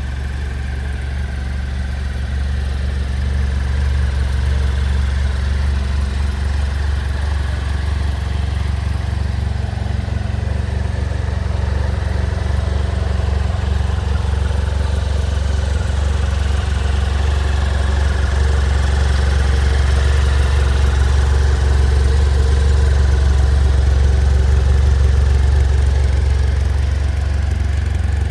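BMW F800 R motorcycle's parallel-twin engine idling steadily, a continuous low hum.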